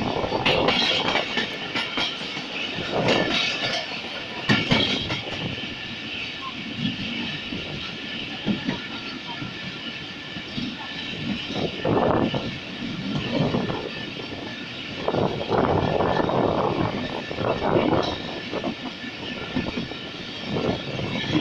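Passenger train coaches running along the track, heard from the side of a moving coach: a continuous rumble and rattle of wheels on rails that swells and eases irregularly, with a run of sharp clacks in the first few seconds.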